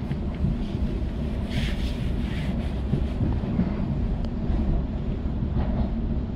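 Sydney suburban electric train running at speed, heard from inside the carriage: a steady low rumble of wheels on the rails with a few light knocks.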